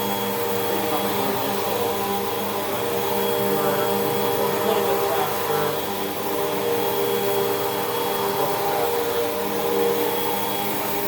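Hoover WindTunnel 2 Rewind upright vacuum cleaner running steadily, its motor giving a constant hum with a slight rise and fall as it is pushed over the floor.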